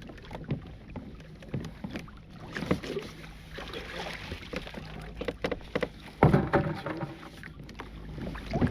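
Water sloshing and dripping around a kayak, with scattered knocks and clicks, as a crab trotline is pulled up and run over the boat. A louder rushing burst comes about six seconds in.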